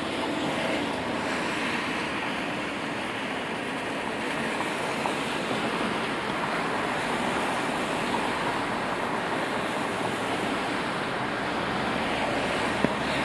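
Steady rain on a city street, with the hiss of traffic driving on wet pavement and a few sharp ticks.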